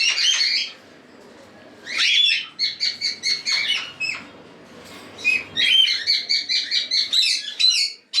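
Cockatiels chirping in a breeding aviary: three bouts of quick, repeated high chirps, with short pauses about a second in and past the middle.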